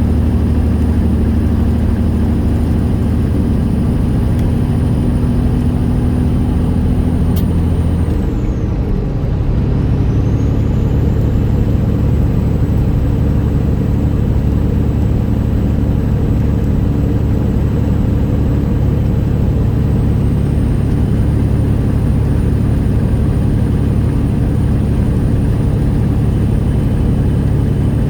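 Straight-piped Detroit Diesel Series 60 engine of a 1999 Peterbilt 379 running steadily on the road. About eight seconds in, the note dips briefly and comes back at a higher pitch, like a gear change.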